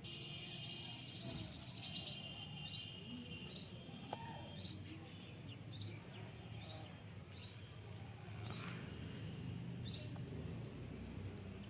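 Faint birdsong: a bird gives a short, high, falling chirp about once a second, with a trill in the first couple of seconds.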